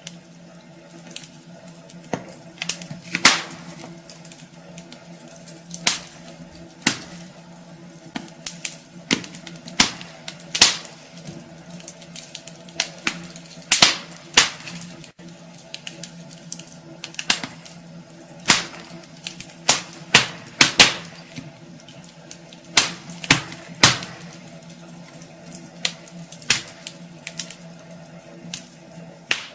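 Wood fire crackling in a fireplace: irregular sharp pops and snaps, some much louder than others, over a steady low hiss.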